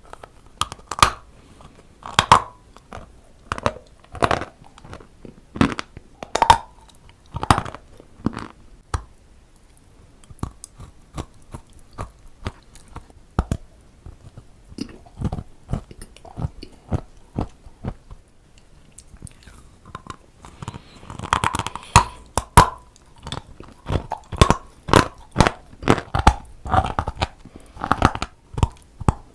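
Dry brown clay being bitten and chewed close up: a string of crisp crunches, roughly one a second at first, fainter through the middle and coming thick and fast again near the end.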